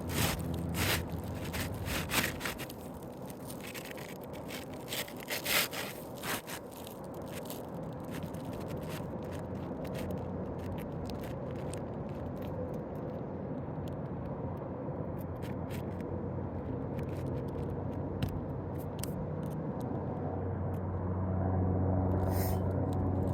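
Asphalt roof shingle being handled and slid into place: scraping and crackling strokes with sharp clicks over the first several seconds, then a steady background, with a low engine hum building near the end.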